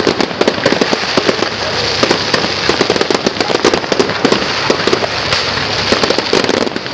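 Fireworks going off: rapid, dense crackling and popping of many small firework reports, loud throughout.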